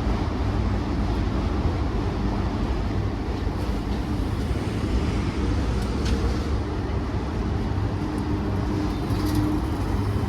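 Long CSX freight train's cars rolling past, a steady low rumble with a few faint clicks.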